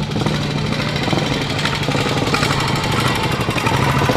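A vintage vehicle's engine running with a quick, even beat.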